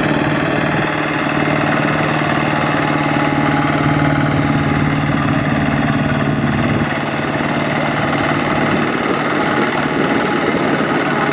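Tractor engine running steadily, with a slight easing about seven seconds in.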